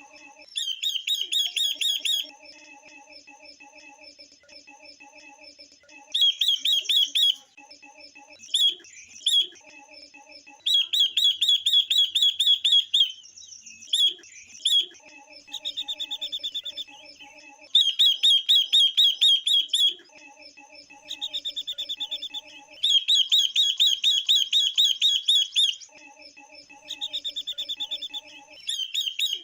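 Female silver-eared mesia and female red-billed leiothrix calling: about ten bursts of rapid, high chattering trills, each a second or two long with short pauses between, over a softer, lower series of repeated notes that comes and goes. These are female calls of the kind played to stir male birds into singing.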